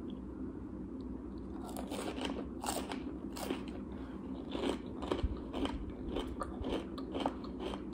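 Chewing and crunching of fried fast food (fries, onion rings, corn dogs or nuggets), close to the microphone: irregular short crunches, several a second, starting about a second and a half in.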